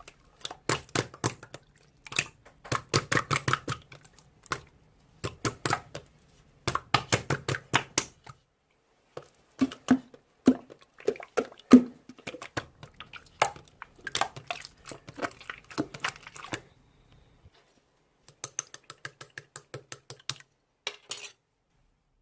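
Slime worked by hand, giving runs of quick sticky clicks and pops as it is pressed, folded and stretched, with short pauses between the runs. It stops shortly before the end.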